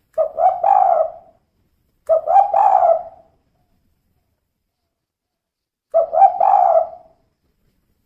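Spotted dove cooing, said to be a female: three phrases, each two short notes running into a longer one. There is a pause of about three seconds before the third phrase.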